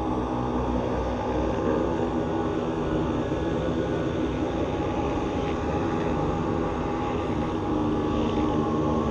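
A dense, steady electronic drone of many held tones layered over a low rumble, with no beat or breaks, in the manner of an aircraft-like hum.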